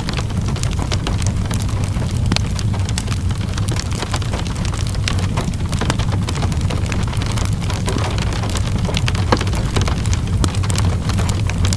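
Wood fire crackling over steady rain: frequent sharp, irregular pops and crackles over an even rain hiss and a steady low rumble.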